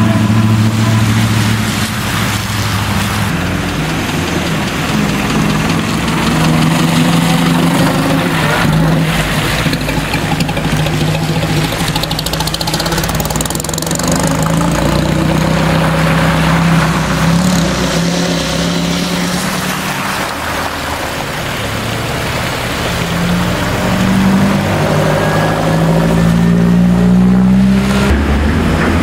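Car engine running at low revs, its pitch rising and falling as it is blipped and eased off, with a rising rev near the end.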